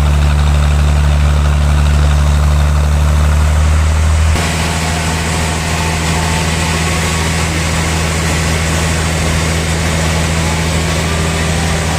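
Sawmill machinery running with a steady low hum. About four seconds in, the sound changes abruptly: the low hum drops and a brighter, hissing noise rises and holds.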